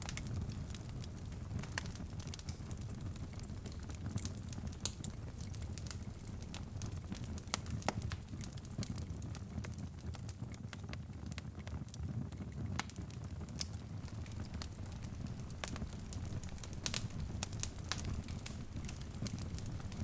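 Wood fire crackling in a fireplace, with irregular sharp pops and snaps over a steady low rumble of the flames.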